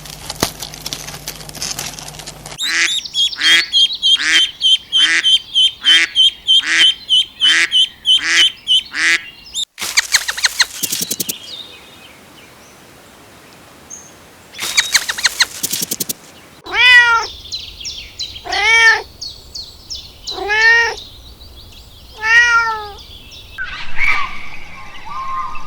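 A series of different animal calls. First comes a quick run of short calls, about two a second, for some seven seconds. Then two brief noisy bursts, and then four separate drawn-out calls that rise and fall in pitch, about two seconds apart.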